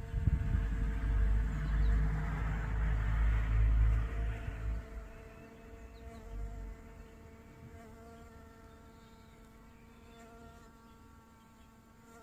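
Bee-fly hovering, its wings giving a steady buzz. A low rumble covers the first five seconds or so, then dies away.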